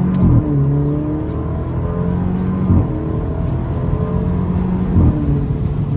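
Alfa Romeo Giulia engine pulling hard through a muffler-deleted exhaust, its pitch climbing between short breaks for gear changes about every two and a half seconds.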